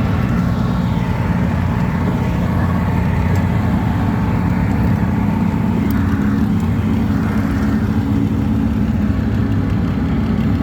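Twin two-stroke jet outboard motors on a jon boat, running steadily under way.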